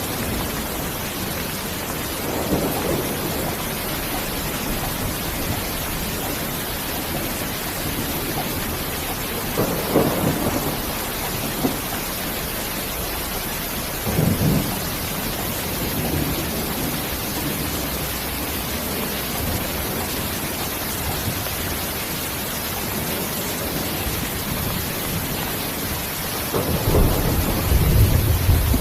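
Steady rain falling, with low rumbles of thunder a few times, the loudest and longest near the end.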